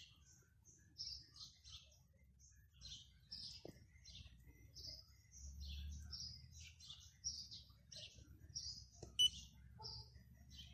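Small birds chirping, many short chirps one after another, over a low rumble, with one sharper, louder chirp about nine seconds in.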